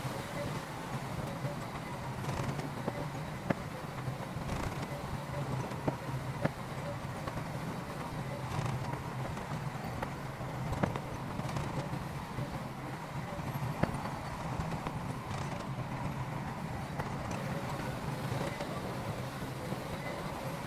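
Heavy earthmoving machinery's diesel engine running steadily, with sharp metallic clanks and knocks every few seconds.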